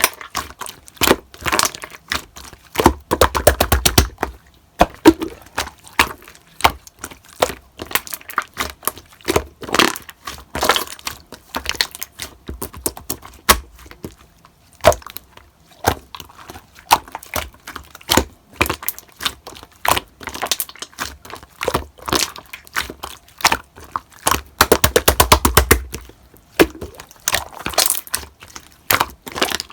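Slime being pressed, squeezed and stretched by hand, giving irregular clicking and popping sounds, with two runs of fast crackling, about 3 seconds in and again near the end.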